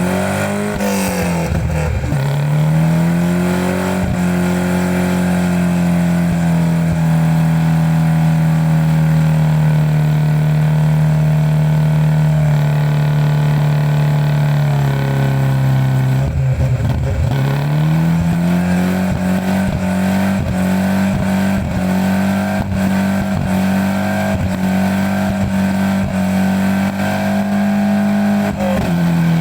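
BMW M43B19 four-cylinder engine in an E36 318i, cold and running on an untuned Speeduino ECU, held at steady high revs. The revs sag and recover near the start and again about halfway through, with scattered crackles, then settle higher and fall away at the very end.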